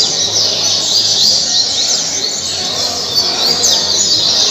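Double-collared seedeater (coleiro) singing a fast, continuous run of high chirps and quick up-and-down sweeping notes.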